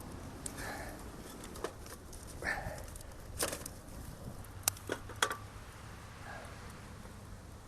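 Wood fire in a fire pit crackling, with a few sharp snaps spread through it, and a bird calling three times in the background.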